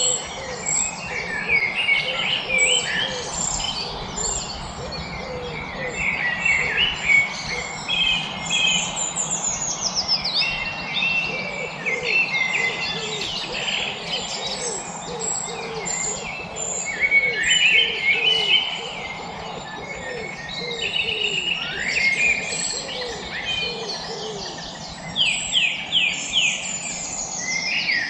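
Several birds singing and chirping at once: quick chirps, rapid trills and falling whistled phrases, over a lower call repeated about once a second through the middle.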